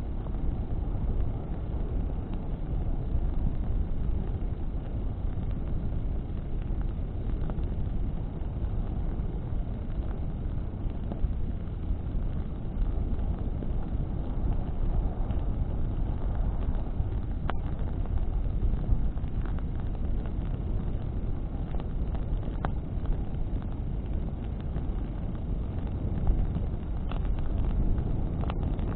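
Bonfire burning in wind: a steady low rushing of flames and wind across the microphone, with a few sharp crackles of burning branches.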